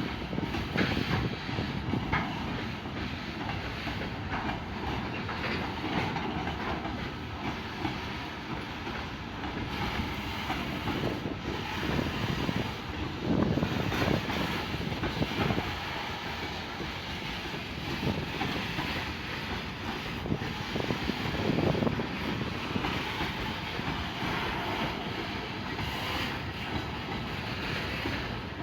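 A train running past on the track, its wheels clattering over the rail joints in a steady run of clicks.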